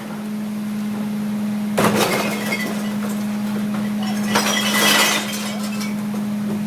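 Recycling truck emptying a bin into its hopper: glass bottles and other recyclables crash and clink in two loud bursts, about two seconds in and again near five seconds, over the truck's steady hum.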